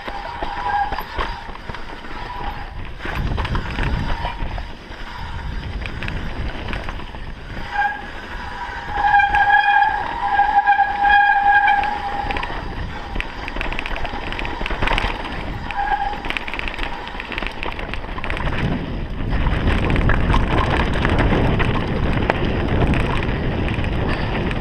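Mountain bike descending a rough trail: rattling and wind rush, with a high brake squeal, one steady tone, briefly near the start and for about three seconds around the middle. A sharp knock comes a little after the squeal.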